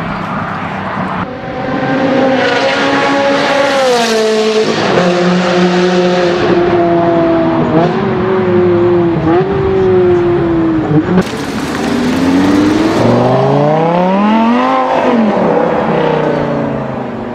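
Supercar engines at full-throttle acceleration, one clip after another. First a car revs hard through several gears, its pitch climbing and dropping at each shift. Then a Lamborghini Gallardo's V10 rises steeply to a peak and falls away.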